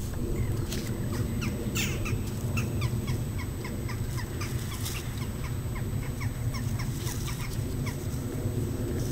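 A bird calling in a quick series of short falling chirps, about three a second, for several seconds over a steady low rumble.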